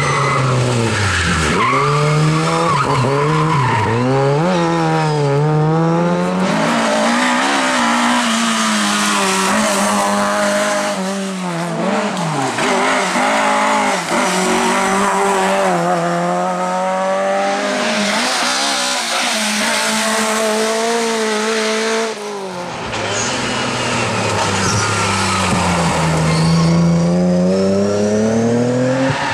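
Rally cars driven hard on a sprint stage: engines revving, their pitch repeatedly rising and falling through gear changes and lifts off the throttle, with tyres squealing. The sound changes abruptly twice as another car or shot takes over.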